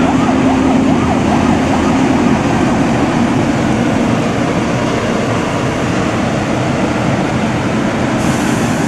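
Emergency vehicle siren in a fast rising-and-falling yelp for about the first two seconds, then fading into loud, steady road and engine noise.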